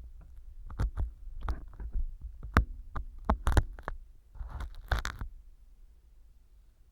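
An earpick scraping and crunching small pieces of floral foam, used as stand-in earwax, inside a silicone ear model on a binaural microphone. A run of crisp, irregular scratches and crackles goes on for about five seconds and then thins out.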